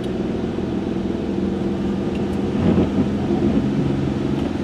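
Engine of a 1995 Chevrolet Monte Carlo running, heard from inside the cabin: a steady low hum with road noise, with a brief wavering in pitch about halfway through.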